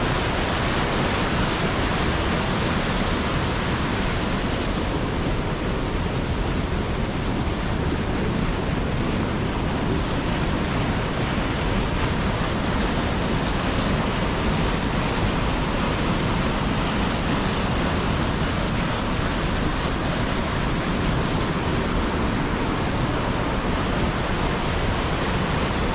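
Steady rushing roar of storm wind on the microphone mixed with crashing surf, unchanging throughout.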